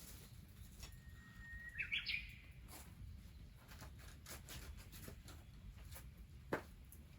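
A bird calls once about a second in: a held whistled note that breaks into a few quick rising notes. Faint scattered clicks and taps sound around it.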